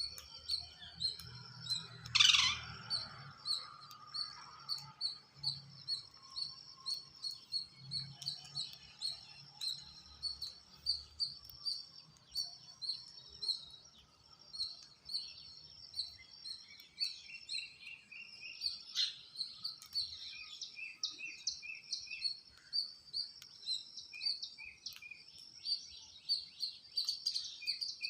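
Birds chirping in a steady run of short, high chirps, several a second, with one louder call about two seconds in that drops sharply in pitch. A second, lower series of chirps joins after about seventeen seconds.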